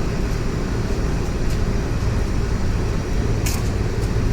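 Steady low rumble of background noise, with a faint click about a second and a half in and a sharper click about three and a half seconds in.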